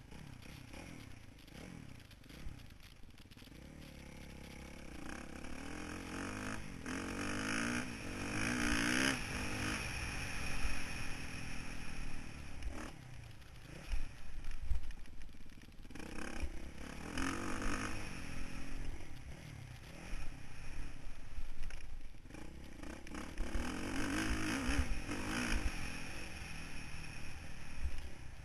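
Motocross bike engine heard from an onboard camera, revving up and down again and again as the rider accelerates and backs off around the track, with scattered knocks. It starts quieter and gets louder from about four seconds in.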